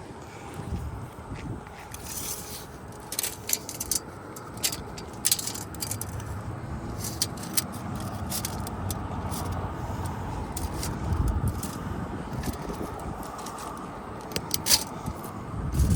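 Irregular scraping, rustling and sharp clicks as a roofing patch material is handled, positioned and cut with a utility knife on an asphalt-shingle roof, over a steady low background rumble.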